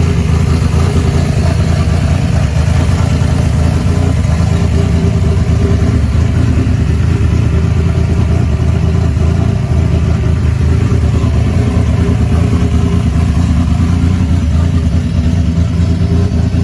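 A newly built Stage 2 Buick V6 racing engine running steadily and loudly, holding an even speed without revving.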